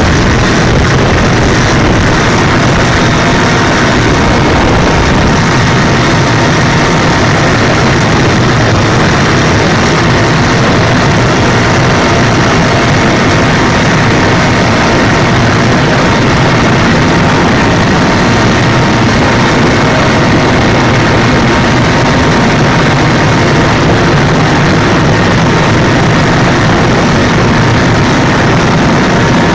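Helicopter in flight: steady, loud engine and rotor noise with a faint steady whine, unchanging throughout.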